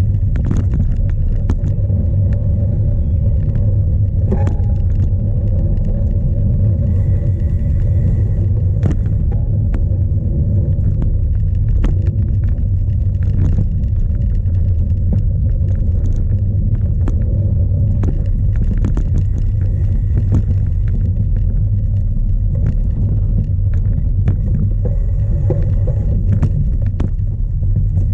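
Onboard sound of a cyclocross bike racing off-road in strong wind: a loud, steady low rumble of wind buffeting the camera microphone, with frequent short knocks and rattles from the bike over rough ground.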